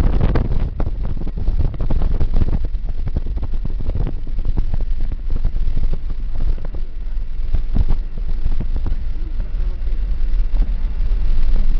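A steady low rumble with wind buffeting the microphone and a constant crackle throughout.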